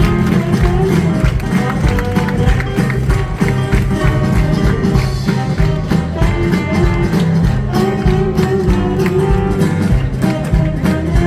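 Loud live music from a stage musical's band, with guitar prominent over a percussive beat.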